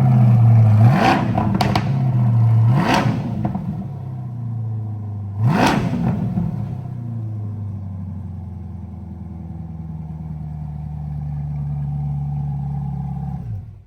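C8 Corvette V8 running through an AWE Track Edition exhaust, blipped three quick revs (about one, three and six seconds in) that rise and fall sharply, then settling to a steady idle that lifts a little near the end before cutting off abruptly.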